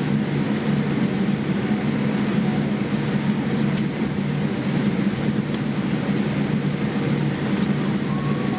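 Steady low drone of a vehicle heard from inside its cabin, with a few faint clicks and a faint thin tone near the end.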